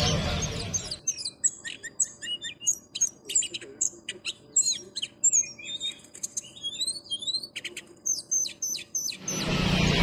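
A songbird singing a fast, varied string of chirps and short rising whistles. It starts about a second in and stops just before the end.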